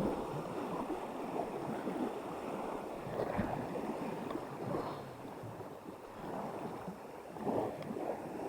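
Wind gusting against the microphone, with small waves lapping at the pond shore.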